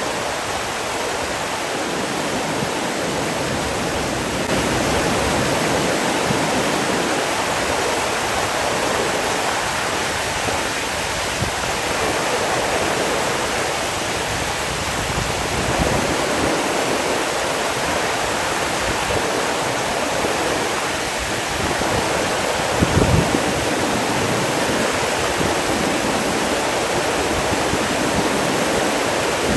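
Steady rush of running water, like a waterfall or fast stream, with a few brief louder knocks about three-quarters of the way through.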